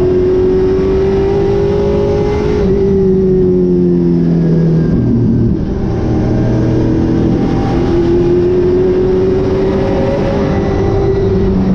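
Super late model race car's V8 engine at racing speed. Its pitch climbs slowly, drops sharply about a third of the way in as the driver lifts for a turn, then climbs again and drops once more near the end.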